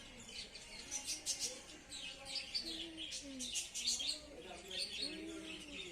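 Many small birds chirping busily, their calls overlapping, with faint voices in the background.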